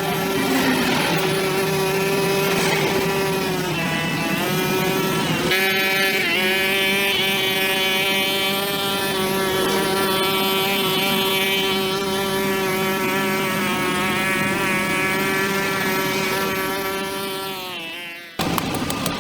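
Small two-stroke engine, likely a brush cutter, running at high revs with a steady whine. The pitch sags briefly about four seconds in, then recovers, and near the end the revs fall away before the sound cuts off suddenly.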